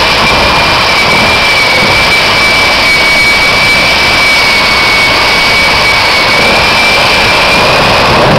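Jet truck's jet engine running steadily and loud, a constant rushing roar with a high whine held at one pitch.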